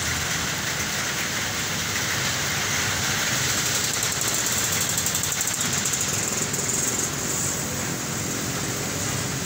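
Heavy rain hissing steadily over road traffic, with a vehicle engine running close by as a low rumble under the rain.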